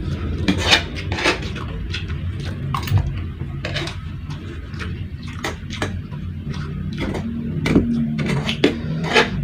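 Eating sounds: a spoon scraping and clinking on a plate, with chewing of fried rice and crunchy chili crackers, as irregular clicks and crunches over a steady low hum.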